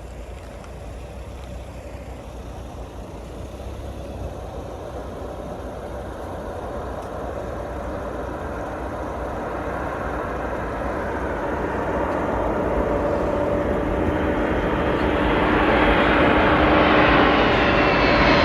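A large engine approaching and growing steadily louder, with a steady hum that becomes clearer and spreads higher in pitch in the second half.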